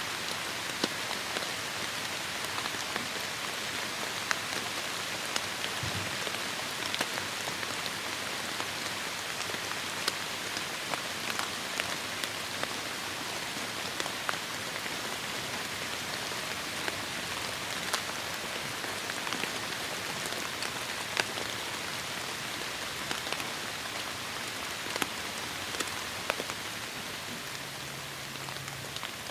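Steady heavy rain falling, an even hiss of rain with many sharp, distinct drop impacts ticking through it.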